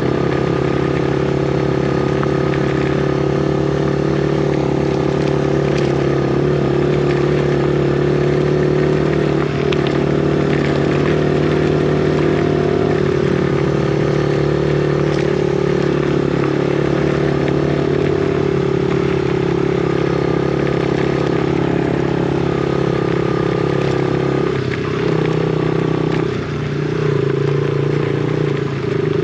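Yamaha TT-R50's small single-cylinder four-stroke engine running at a steady pitch while riding, with the revs dipping and picking back up a couple of times near the end.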